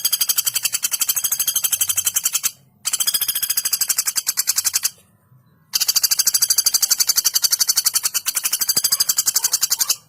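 Female common flameback woodpecker giving long, very fast rattling trills of sharp, high notes. There are three in a row, with short breaks after about two and a half seconds and near the middle.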